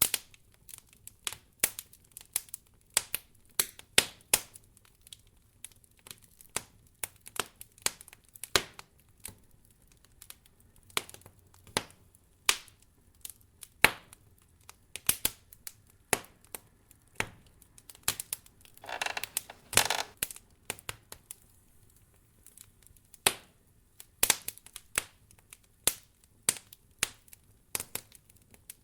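Wood fire crackling in a fireplace: irregular sharp pops and snaps, with a brief denser patch of crackling about two-thirds of the way in.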